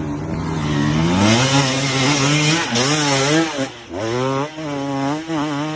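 Dirt bike engine revving hard under throttle. The pitch rises about a second in and wavers up and down as the throttle is worked, drops sharply about two-thirds of the way through, then climbs again in short surges.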